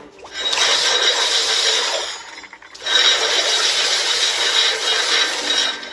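Two long bursts of hissing, rattling mechanical noise with a thin high whine running through them: the first about two seconds long, the second about three, with a short gap between.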